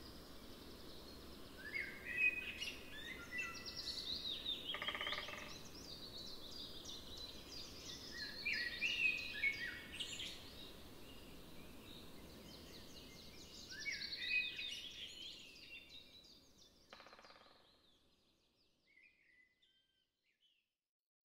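A songbird singing three bursts of quick, sweeping chirps and trills, a few seconds apart, over steady outdoor background noise. The sound fades out near the end.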